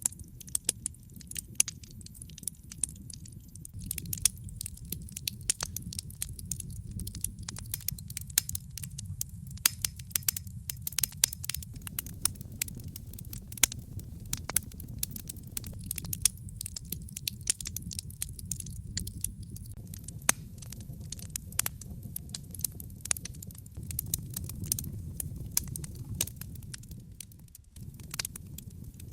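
Wood fire in a fireplace crackling, with many irregular sharp pops and snaps over a steady low rumble of burning. The sound briefly drops away near the end.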